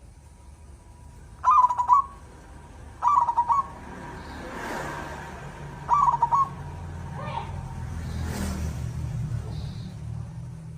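Zebra dove cooing: three short bursts of rapid, trilled coos, with a fainter call after them. A low rumble builds through the second half.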